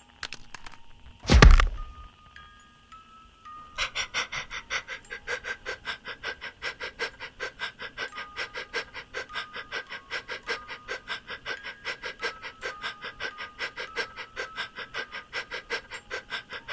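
A single loud bang about a second in, like a firework going off. Then a dog panting fast and steadily, about five breaths a second, over light music.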